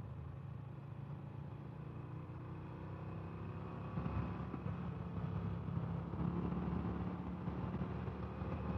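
Harley-Davidson Fat Bob's Milwaukee-Eight V-twin engine running under way on the road, growing louder about four seconds in.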